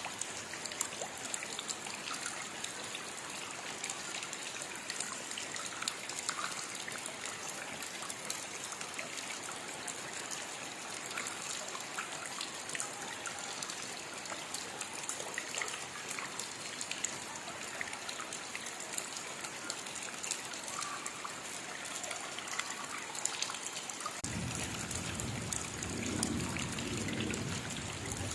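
Steady rain with many small, crisp drops pattering over a constant hiss. Near the end a low rumble joins in for a few seconds.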